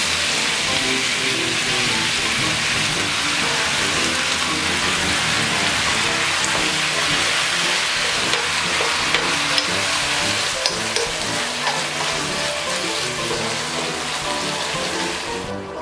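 Chop steak, beef cubes with bell peppers, onion and mushrooms, sizzling as it is stir-fried with a wooden spatula in a hot pan, with the sauce stirred in. The sizzle cuts off sharply just before the end.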